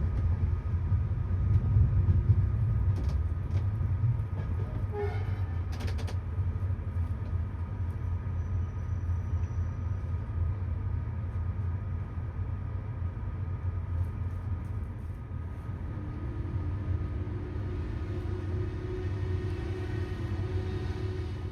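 Passenger train running on the rails: a steady low rumble with a few light clicks in the first seconds. A steady mid-pitched tone joins about sixteen seconds in.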